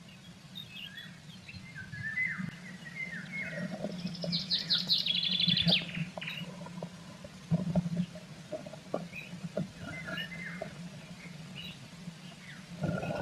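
Small songbirds chirping, with a fast high trill about four seconds in, over a steady low hum. A few dull knocks sound in the second half.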